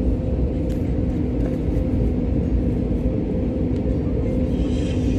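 Jet airliner cabin noise: a steady engine drone with deep rumble and a constant hum.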